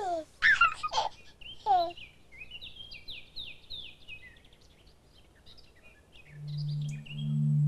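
Birdsong: a few loud, falling whistled calls in the first two seconds, then a run of quick falling chirps. About six seconds in, a low held musical tone swells in.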